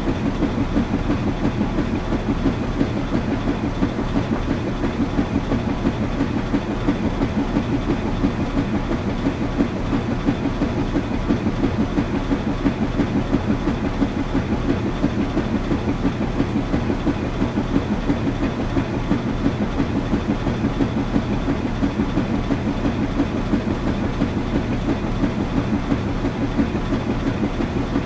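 Washing machine running, a steady mechanical churn with a fast, even pulsing rhythm.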